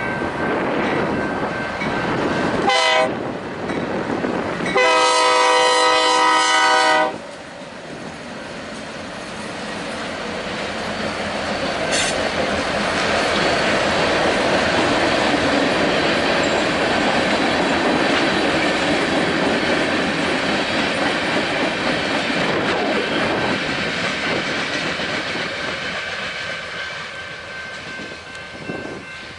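A diesel freight locomotive's air horn sounds one short blast and then a longer one of about two seconds. The train then rolls past, its noise building to a peak partway through and fading off toward the end.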